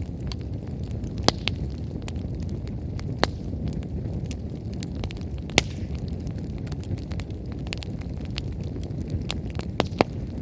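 Wood bonfire burning hard: a steady low roar of flame with scattered sharp crackles and pops of burning firewood, the loudest about a second in, a little over three seconds in, midway and near the end.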